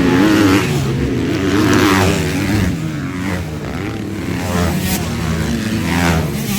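Motocross motorcycle engines revving, the pitch rising and falling repeatedly.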